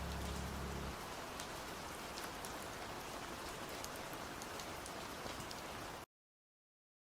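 Steady rain hiss with scattered drop ticks. A low held tone ends about a second in, and the rain cuts off abruptly about six seconds in.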